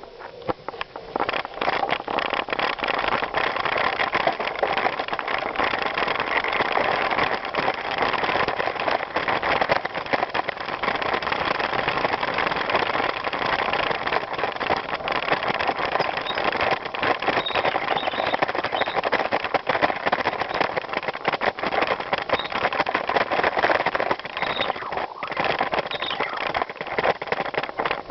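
Bicycle rolling over a rough trail: a steady crunch of tyres on the surface with constant small rattles and clicks from the bike.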